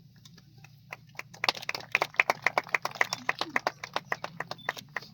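Sparse applause from a small group of people, a few hands clapping unevenly. It starts about a second in, fills out briefly and thins away near the end.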